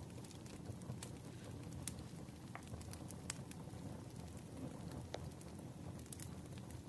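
Wood fire crackling: irregular sharp pops and snaps, a few louder than the rest, over a steady low rumble of the burning logs.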